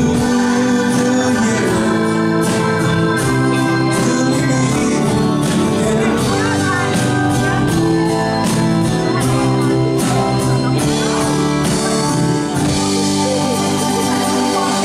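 Live band playing a song, with singing over held keyboard chords and a steady drum beat.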